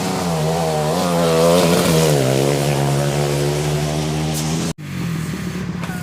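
Motorcycle engine running hard at high revs, its pitch wavering and then settling to a steady note about two seconds in. The sound breaks off abruptly near the end, and then a similar engine sound carries on.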